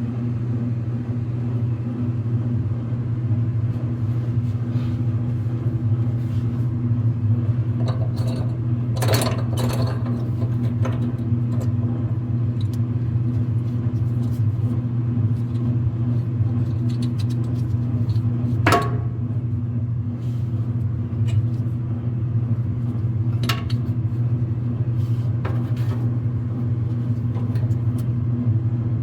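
Whirlpool clothes dryer running with a steady low rumble and hum, the drum noise that the repairer puts down to worn drum rollers. A few sharp knocks or clicks stand out, about a third of the way in, near the middle, and later on.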